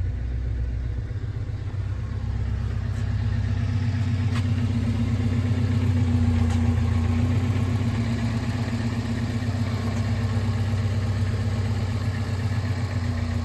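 1987 Alfa Romeo Spider Graduate's twin-cam four-cylinder idling steadily through an exhaust with the rear muffler deleted, the engine still warming up after a cold start.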